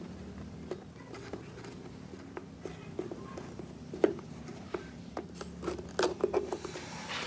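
Irregular light clicks and taps of small parts and tools being handled during a speaker repair, loudest about four and six seconds in, over a steady low hum.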